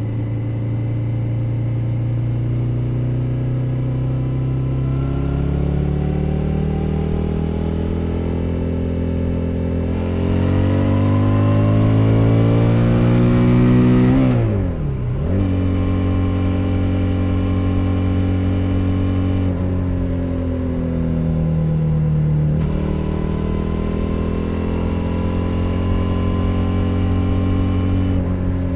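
2021 Suzuki SV 650's 645 cc V-twin engine under way, its pitch climbing steadily as it accelerates, then dropping sharply and picking up again about halfway through at a gear change. The pitch steps down twice more later on.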